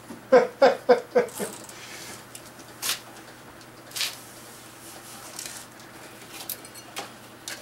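A few short voiced bursts from a person, like a quick laugh or grunt, in the first second and a half, then two sharp knocks about a second apart.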